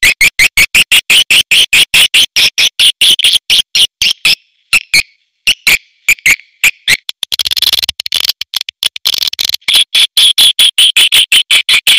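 Recorded swiftlets (burung walet) calling in rapid trains of short, high, sharp chirps, several a second, thinning out for a few seconds in the middle and then coming thick again. This is a swiftlet call-sound (suara panggil) recording, played to lure swiftlets into a swiftlet house.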